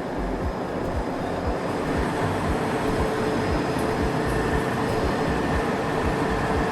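Khlong Saen Saep canal boat's diesel engine running steadily under way, with a droning tone and irregular low thumps.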